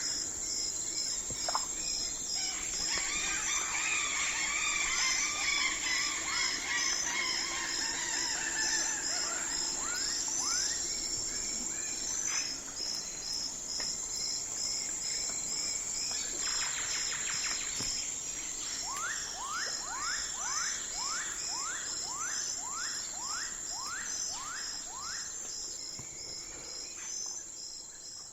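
Night forest ambience: insects trilling steadily in a high pulsing chorus, with a warbling bird song a few seconds in and a run of about a dozen short rising calls, roughly two a second, in the second half. The whole fades out near the end.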